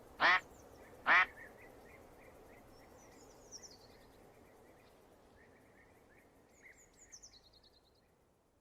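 Domestic duck quacking twice, loud and nasal, in the first second or so. Then faint high chirping runs on until the sound stops shortly before the end.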